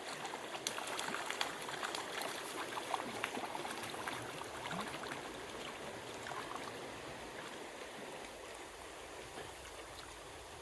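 Water of a small wild stream running steadily over stones, with scattered light ticks in the first half that thin out as the sound eases slightly toward the end.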